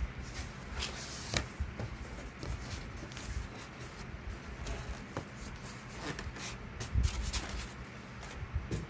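Hands opening a shipping box: irregular rustling, scraping and sharp clicks of cardboard and packaging being pulled and handled, with a louder knock about seven seconds in.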